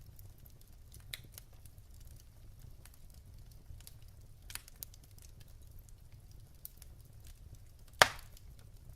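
Wood fire burning in a fireplace: logs crackling with scattered small snaps over a low steady rumble, and one loud, sharp pop near the end.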